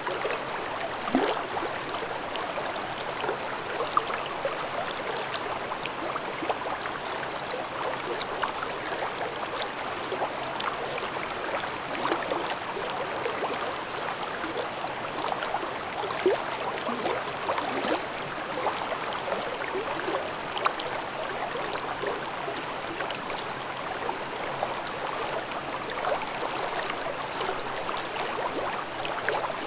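Forest stream babbling through a ravine: a steady rush of water dotted with many small gurgles and splashes.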